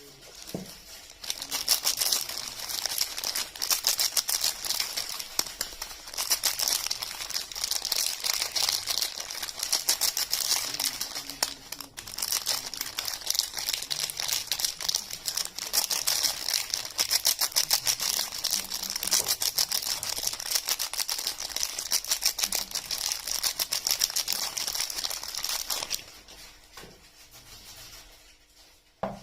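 Soap wrapping crinkling and crackling continuously as it is handled and unwrapped, dying down about 26 seconds in. A brief knock comes right at the end.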